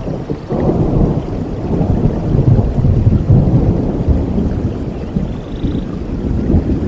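Thunder rolling over heavy rain: a deep rumble swells about half a second in, peaks in the middle, and slowly eases off while the rain hiss carries on underneath.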